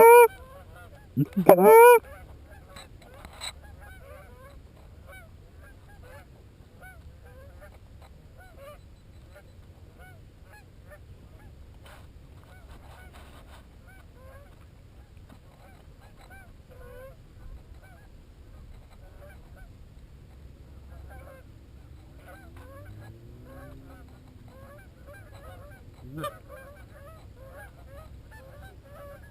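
Geese honking: a few loud honks in the first two seconds, then many faint honks from a flock keeping up a steady chatter.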